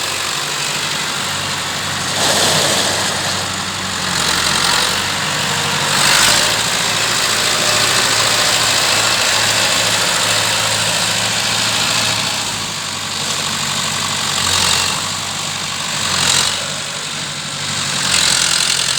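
Massey Ferguson 595 tractor's six-cylinder diesel engine idling steadily, with a few brief swells in the sound.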